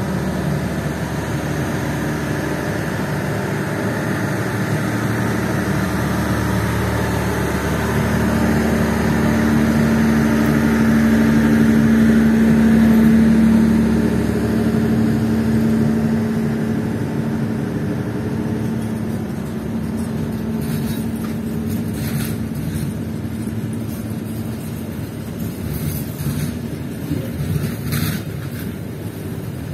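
Passenger train carriages rolling past on the rails: a steady rumble with a low hum that grows louder to a peak about twelve seconds in and then eases off. In the last third, sharp clicks of the wheels crossing rail joints come through.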